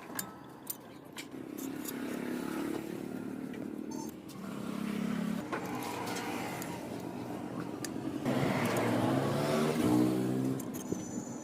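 Motorcycle engine revving up and down in several swells, the loudest near the end, with a few sharp metallic clicks.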